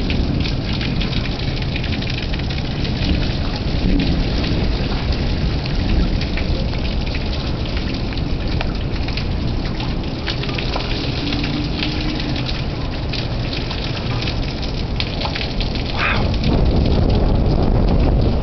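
Heavy thunderstorm rain pouring down, with many sharp drop impacts close by and a low rumble of thunder underneath. The sound grows louder about sixteen seconds in.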